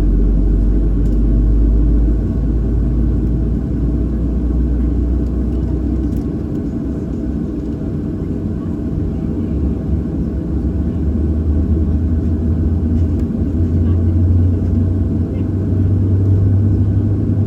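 Steady low rumble inside the cabin of a Boeing 737-800 during pushback and engine start. A deep hum steps up in pitch about halfway through and grows stronger toward the end.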